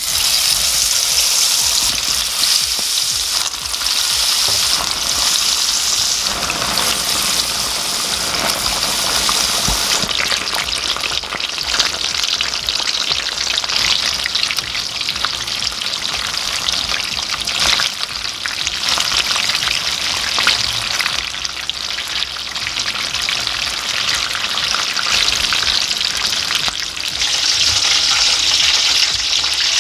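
Batter-coated stuffed chili peppers frying in hot oil, a dense, steady sizzle and crackle.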